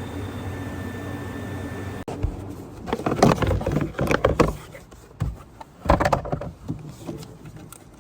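A steady mechanical hum with a faint whine; after an abrupt cut about two seconds in, a run of irregular metallic clatters and knocks, loudest between about three and six seconds in.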